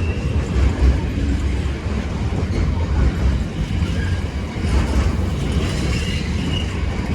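Train rolling through a station: a continuous low rumble of wheels on rail with some clickety-clack, and a few brief high wheel squeals near the end.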